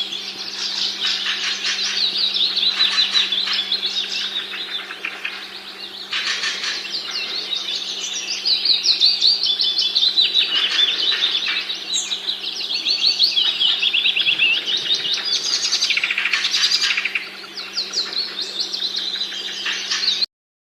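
Songbirds singing: dense, fast runs of high chirping notes that keep on without a break, over a steady low hum. The sound cuts off abruptly near the end.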